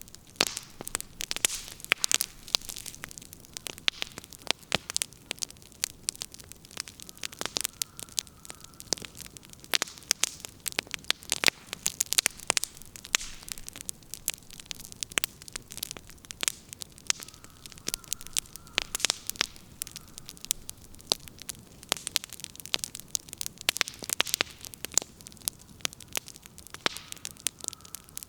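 Wood fire burning, its firewood crackling and popping with dense, irregular sharp snaps.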